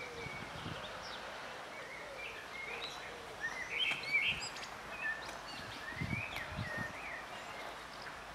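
Birds chirping with short, scattered calls over steady outdoor background noise. The calls are loudest about four seconds in.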